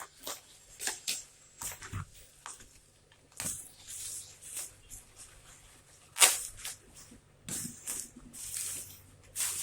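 Plastic packaging rustling and crinkling in irregular bursts, with a few light knocks, as a small plastic part is unwrapped and handled.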